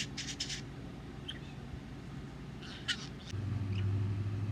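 Budgerigar chattering in short high bursts, a cluster at the start and another about three seconds in. A low steady hum comes in just after.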